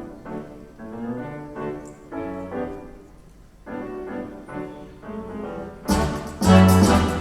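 Grand piano playing a solo passage of separate chords and phrases. About six seconds in, the full symphony orchestra comes in much louder, with brass.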